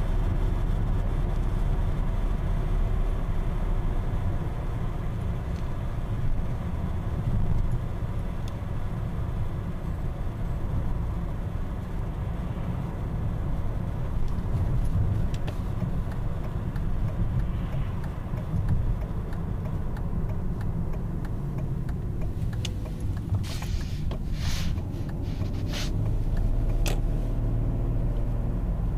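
BMW 528i E39 on the move: steady road and straight-six engine rumble, with faint steady high tones in the first half and a handful of sharp clicks about three-quarters of the way through.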